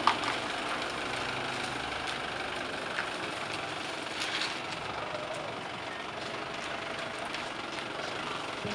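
A minivan's engine runs steadily as the van moves off. There is a single sharp knock just at the start.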